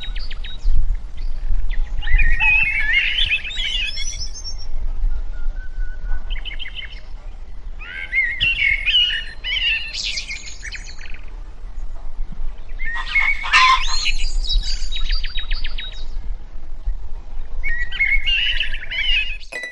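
Birds singing in short bursts of quick chirps and trills, about five phrases with gaps between them, over a steady low rumble.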